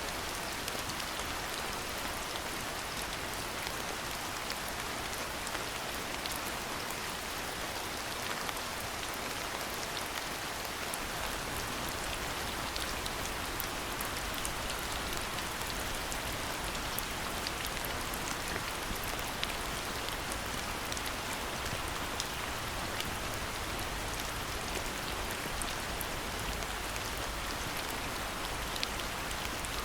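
Steady rain falling: an even hiss with scattered sharp ticks of individual drops striking.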